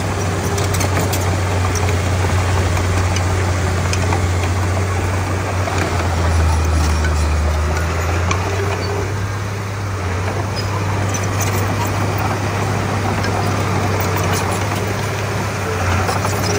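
Diesel engine of a Komatsu D31P bulldozer running with a steady low drone that sinks lower for a couple of seconds around six seconds in, with light scattered clicks over it.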